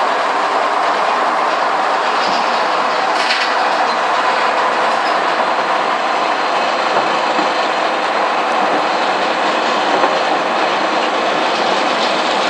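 Sawmill breaking down saw and its machinery running, a loud steady mechanical noise that does not change.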